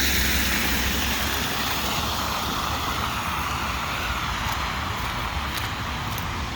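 A road vehicle driving past on the snowy street: a steady rush of tyre and engine noise with a low rumble, sliding lower in pitch and slowly fading.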